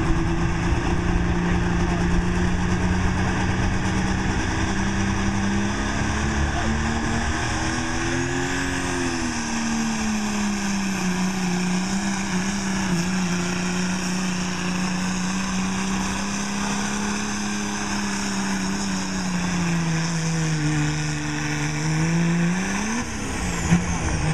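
1994 Dodge pickup's engine held at high revs under full load as it drags the pulling sled. Its pitch sags twice as the sled bogs it down, rises briefly near the end and then drops off as the pull ends.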